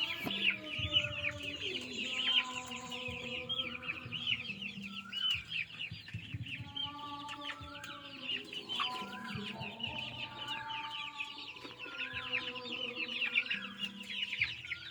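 Chickens calling and clucking, with pitched calls of about a second each, every second or two, over a constant rapid high chirping.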